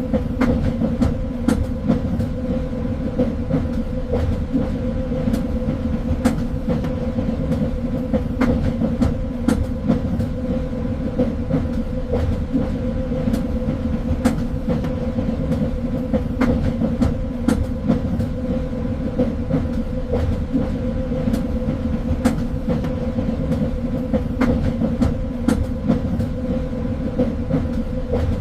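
Train running along the track: a steady rumble with a constant hum, and irregular clicks and knocks from the wheels on the rails.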